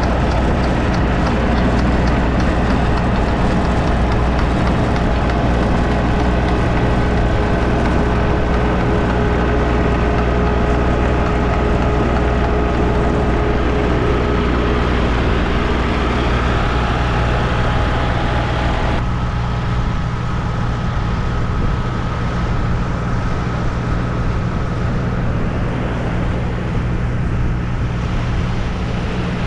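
Boat engine running steadily, a continuous mechanical drone with a few steady tones; about two-thirds of the way in its higher part drops away and it gets a little quieter.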